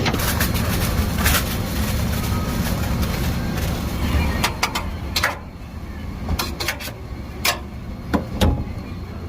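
Busy street noise: a steady low rumble like passing traffic, with many sharp clicks and knocks over it.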